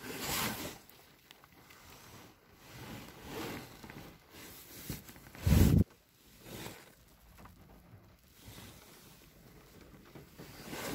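Rain pattering on a car, heard from inside the cabin, with faint rustles coming and going and one loud low thump about halfway through.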